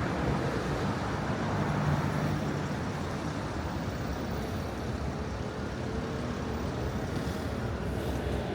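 Steady road traffic on a city boulevard: cars and buses passing, with a continuous tyre and engine hum, a little louder in the first two seconds.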